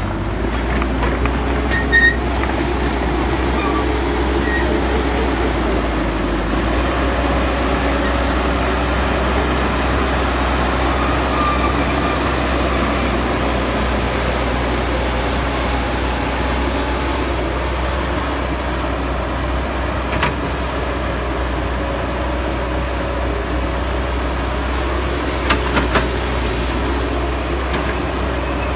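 Caterpillar hydraulic excavator's diesel engine running steadily while digging in mud, with a few short sharp knocks about two seconds in and again near the end.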